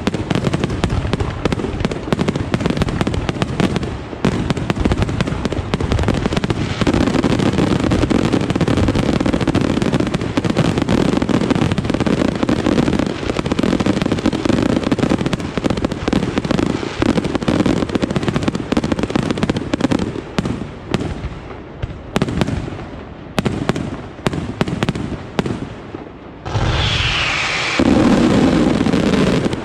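Aerial fireworks display: a dense, rapid barrage of shells and cakes bursting with overlapping bangs and crackling, which thins out over the last third. Near the end there is a sudden louder burst with a falling whistle.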